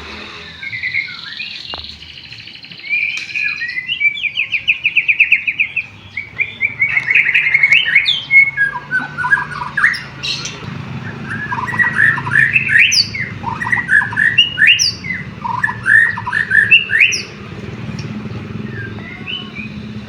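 White-rumped shama (murai batu) singing a long, varied song of whistled notes, with a fast trill in the first half and quick, separate phrases after it. The song carries canary-like phrases learned from canaries.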